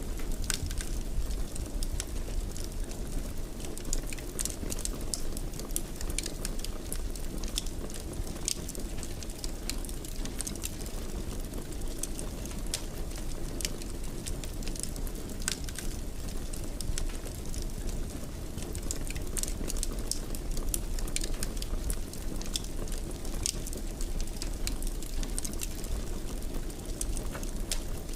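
Fire crackling in a fireplace: a steady low rush with frequent small, irregular crackles and pops.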